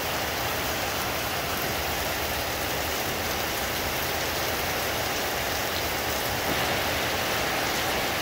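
Heavy rain falling steadily on leafy trees, an even hiss that swells slightly about six and a half seconds in.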